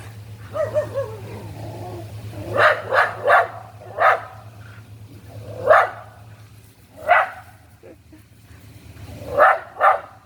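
A dog barking: a brief wavering whine first, then about eight short sharp barks, some in quick pairs, spaced out over several seconds.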